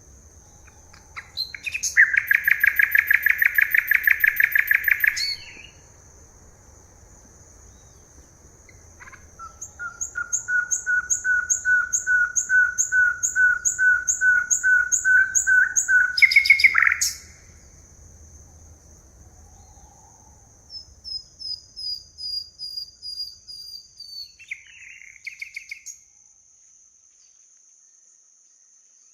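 Forest birds singing: a fast, loud trill lasts about three seconds, then a long series of evenly spaced whistled notes at about two to three a second, and later a run of short high falling notes. A steady high-pitched tone runs underneath throughout.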